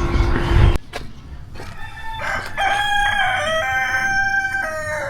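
Rooster crowing: one long, drawn-out crow starting about two seconds in and lasting about three seconds. It is preceded by a low rumble with a steady hum that cuts off suddenly under a second in.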